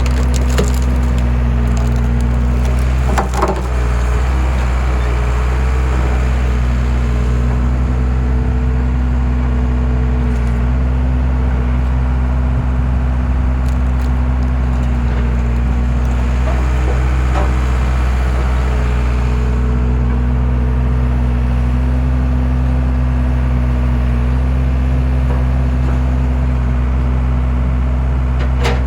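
Skid steer engine running steadily under load while its homemade log-splitter attachment forces wood apart, with the wood cracking and splintering several times.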